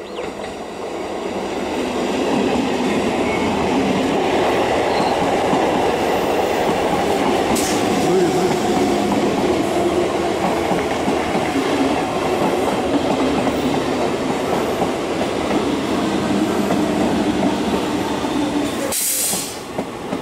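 Twelve-coach Indian Railways EMU local train accelerating past on the rails. Its rumble builds over the first two seconds, then holds loud and steady with a steady hum among the wheel noise. A short hiss comes near the end.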